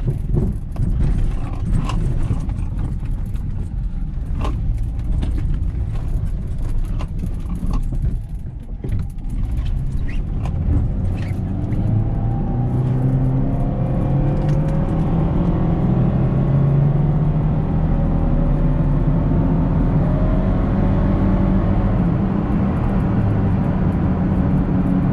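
Inside a Nissan Rogue pulling away, with scattered clicks and knocks over the first ten seconds or so. Then the 2.5-litre four-cylinder engine rises in pitch as the car speeds up, and it settles into a steady cruising drone with road noise. The engine keeps running without stalling, on a test drive after new spark plugs and an ignition coil, and it is accelerating somewhat good.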